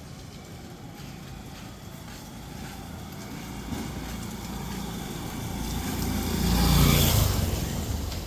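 A motor vehicle drives past, its engine and tyre noise swelling to their loudest about seven seconds in and then fading.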